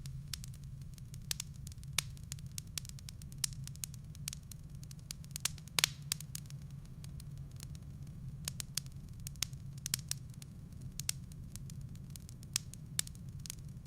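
Wood fire crackling in a fireplace: irregular sharp pops and snaps of burning firewood over a steady low rumble, with a louder cluster of pops about six seconds in.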